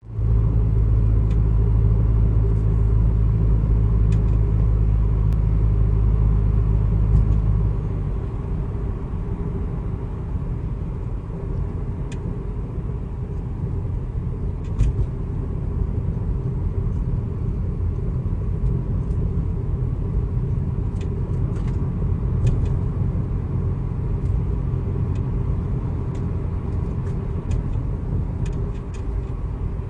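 Subaru WRX on the move: a steady low drone for about the first eight seconds, then a rougher road rumble. Scattered faint clicks and knocks run through it, the abnormal noise the owner puts down to the car's Tein Flex Z coilovers.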